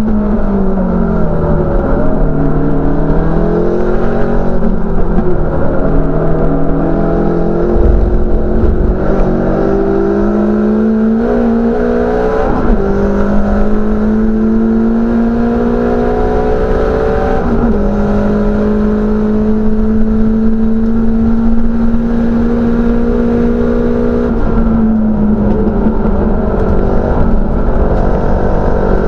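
Race car engine heard from inside the cabin under racing load. The note falls at the start, then climbs and steps with gear changes about 12 and 17 seconds in, holds steady for a stretch, and changes again near the end.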